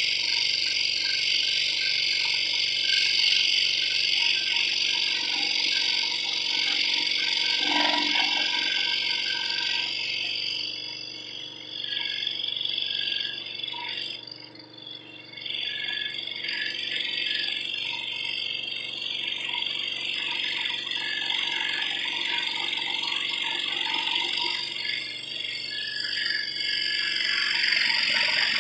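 Scroll saw running and cutting, its reciprocating blade making a steady fast buzz with a high rasp. The sound drops for a few seconds about halfway through, then picks up again.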